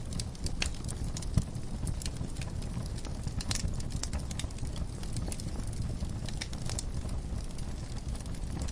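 Wood fire burning in a fireplace: a steady low rumble of flames with irregular crackles and pops, one louder pop about a second and a half in.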